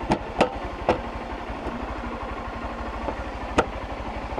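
Motorcycle engine idling with a steady, even pulse, with several sharp knocks or clicks over it, three close together near the start and one more about three and a half seconds in.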